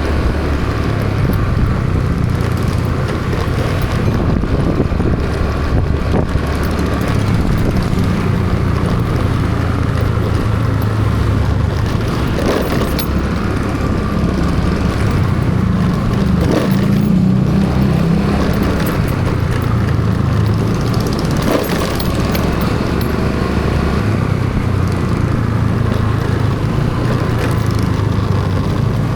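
Vehicle engine running steadily while under way, heard from on board with road noise around it. About halfway through, the engine note rises for a couple of seconds and then settles again.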